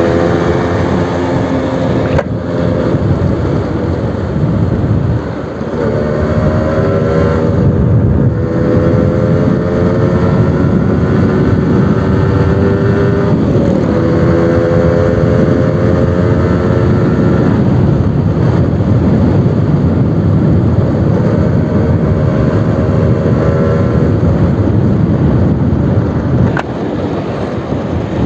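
Suzuki RC100 two-stroke motorcycle engine on a new exhaust, running under load while ridden, its pitch climbing slowly in several long pulls and dropping back lower between them, over a heavy low rumble. It eases off near the end.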